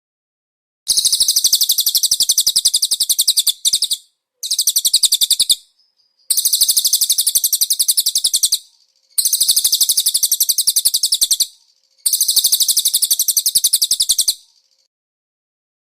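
Cililin bird song: a rapid, high-pitched trill of evenly repeated notes, given in five bursts of two to three seconds each with short pauses between.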